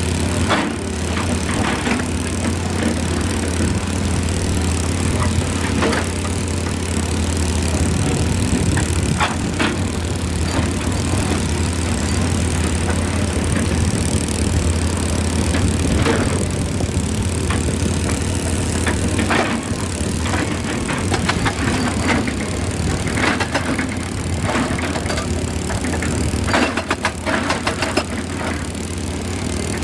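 Excavator's diesel engine running steadily, with scattered knocks and clanks from the machine at work, a quick cluster of them near the end.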